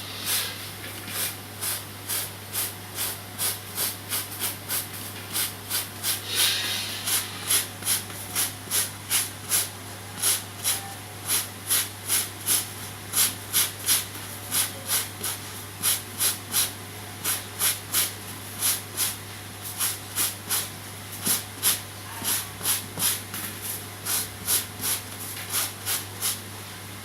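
A stiff brush scrubbing dust off a vacuum cleaner's dirty filter in repeated downward strokes, about two a second. This is cleaning the clogged filter to restore lost suction.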